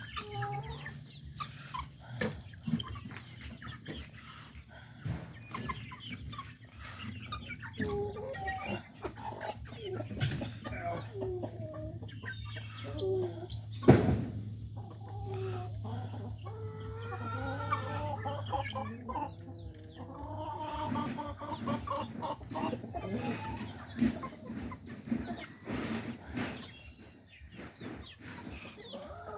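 A flock of chickens clucking and calling over a low steady hum, with one sharp knock about fourteen seconds in.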